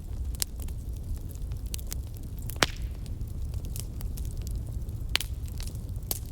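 Wood fire crackling: a steady low rumble of burning with scattered sharp pops, the loudest a little before halfway through.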